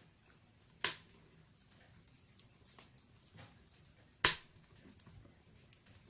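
Firewood burning in a fireplace: faint scattered crackling with two loud, sharp pops, the first about a second in and the louder one just past four seconds in.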